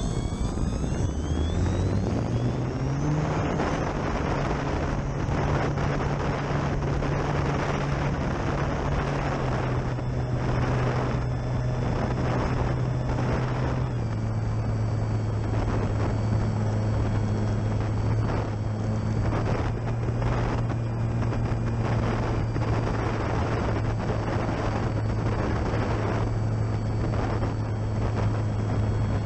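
Electric motor and propeller of a Durafly Tundra RC plane: the pitch climbs over the first few seconds as the throttle comes up, then holds steady and drops a little about fourteen seconds in. Gusty wind rushes over the microphone, rising and falling in surges.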